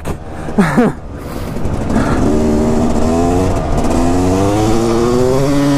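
Dirt bike engine running on ice tyres. It eases off about a second in, then revs up steadily, its pitch climbing as it accelerates, with wind rushing over the microphone.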